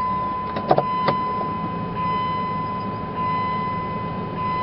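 A steady, high electronic beep tone sounds continuously over a vehicle engine running, with a few sharp clicks about a second in.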